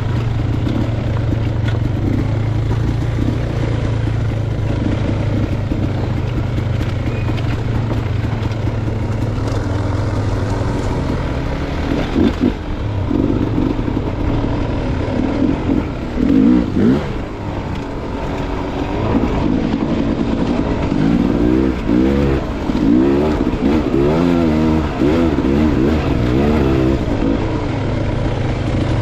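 Dirt bike engine running steadily on the trail. From about twelve seconds in its pitch rises and falls again and again as the throttle is opened and closed.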